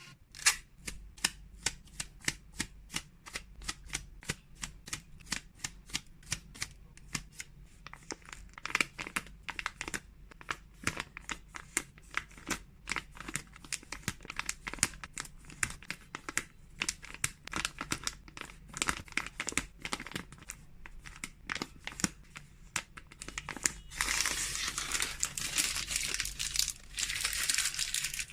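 Freeze-dried cat treats being portioned and packed by hand: a long run of light clicks and taps, about three or four a second, then about four seconds of plastic packaging crinkling near the end.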